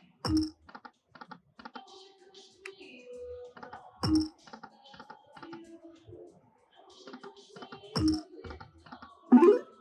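Lightning Link slot machine being played: three short, sharp chime-hits about four seconds apart as spins go off, with rapid small clicks of the reels and button between them. A louder warbling game sound comes near the end.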